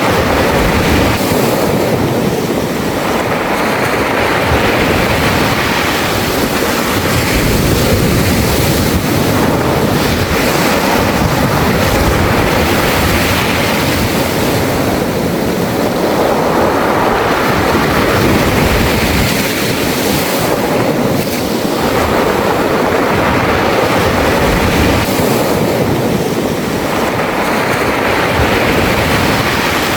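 Sea waves washing over a beach of smooth round pebbles (mongdol), the stones rattling as each wave runs up and drains back, surging every few seconds.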